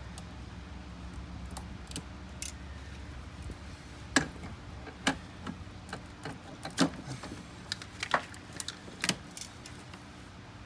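Scattered sharp clicks and knocks of tools and parts being handled during engine work, about a dozen between four and nine seconds in, over a steady low hum.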